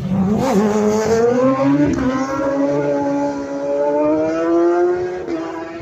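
A racing superbike's engine at full throttle, accelerating hard past the roadside. Its note climbs steadily, with a brief break near two seconds, and levels off as it fades near the end.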